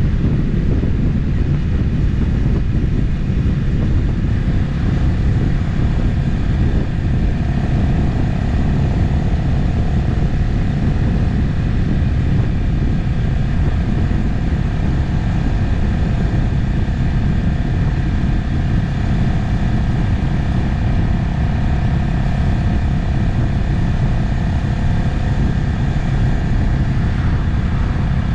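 Motorcycle cruising at a steady speed: an even engine drone under a heavy low rush of wind and road noise, with a faint steady whine.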